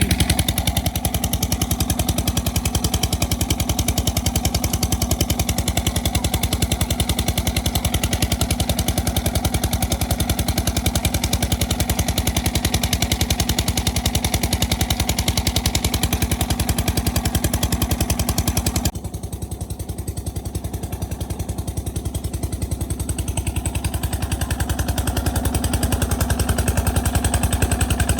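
1930s Krimo 35 hp oil engine running with a steady, rapid firing beat. About two-thirds of the way through the sound suddenly drops in level and thins out, then builds back up.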